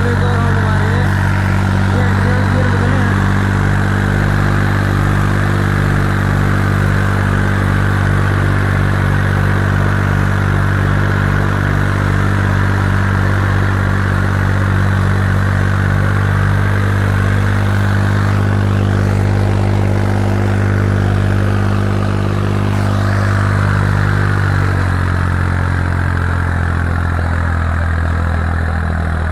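Swaraj 963 FE tractor's three-cylinder diesel engine running hard at steady high revs during a power test. About 25 seconds in, the engine note drops slightly lower.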